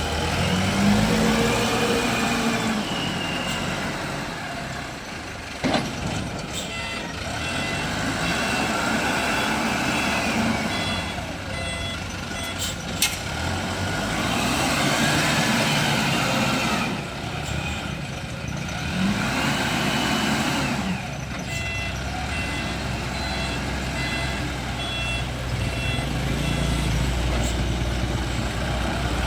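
SYZG ZL 932 wheel loader's diesel engine revving up and down again and again as it works, with its reversing alarm beeping in runs during the middle and near the end. Two sharp knocks stand out, one about six seconds in and one about thirteen seconds in.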